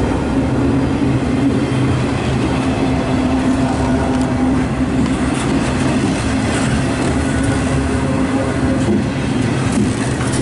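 CSX double-stack intermodal train's loaded well cars rolling past, a steady, loud rumble of steel wheels on the rails.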